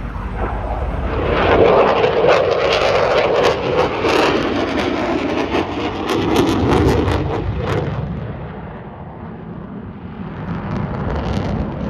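Aircraft engine noise as a plane flies past, swelling to a peak about two seconds in, staying loud for several seconds, then fading away.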